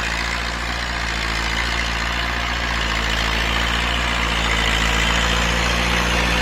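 Diesel farm tractor running steadily while pulling a disc harrow through sugarcane trash, with a low engine hum that slowly grows louder as it comes closer.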